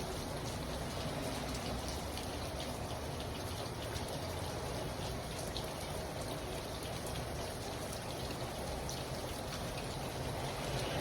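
Steady rain falling, an even hiss with a few scattered drops tapping.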